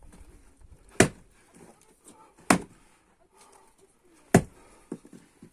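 Splitting maul striking dry ash rounds stood on the ground: three sharp chops about a second and a half apart, then two fainter knocks near the end.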